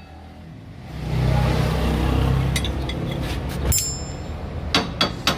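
The electric pump motor of a hydraulic car lift runs steadily for nearly three seconds, raising the car, then cuts off abruptly. A few sharp metal clinks follow near the end.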